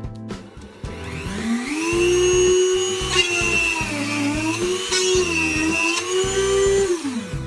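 A rotary tool motor spins up with a rising whine and runs at high speed, its pitch dipping a couple of times, then winds down near the end. Background music with a steady beat plays underneath.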